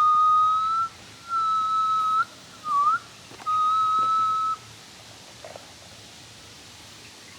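Whistling: three long held notes at nearly the same pitch, with a short dipping-and-rising note between the last two, stopping about four and a half seconds in.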